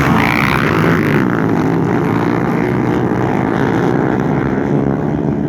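Motorcycle engine running at fairly steady revs, loud throughout.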